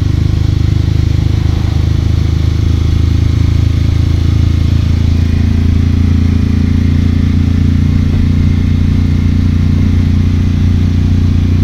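Steady low rumble of vehicles on the move: engine and road noise, unbroken throughout.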